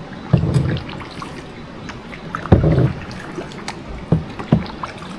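Paddle strokes splashing in water from a small boat: four uneven splashes over a steady wash of water.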